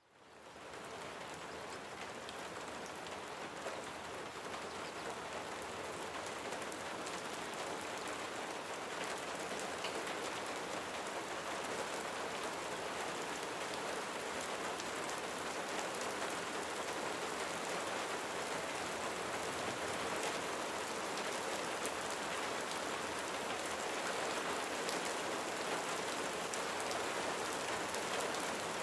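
Steady rain falling on a roof: a dense, even hiss with scattered sharp drop taps, fading in over the first second.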